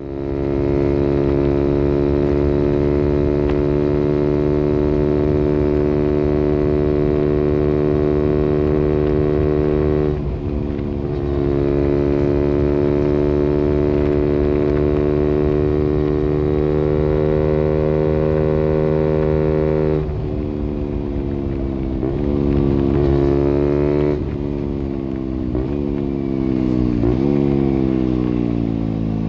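KTM Duke 125 single-cylinder four-stroke engine running at fairly steady revs that creep slowly upward, with a brief dip about ten seconds in. In the last third it accelerates through the gears: several quick rises in revs, each cut off by a sudden drop at the upshift.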